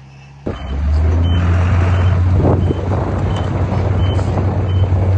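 Heavy diesel earthmoving machine running loud and low, with a reversing alarm beeping about once every three-quarters of a second. It cuts in abruptly about half a second in over a fainter engine hum.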